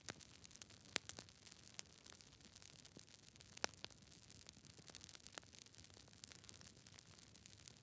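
Campfire crackling faintly: a soft hiss with scattered sharp pops and snaps at irregular intervals, the loudest about a second in and again after about three and a half seconds.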